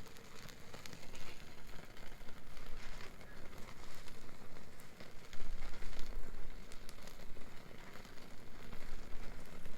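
Wood bonfire crackling, with many small irregular pops and snaps over a steady hiss. About halfway through, a low rumble swells for a second or two and is the loudest part.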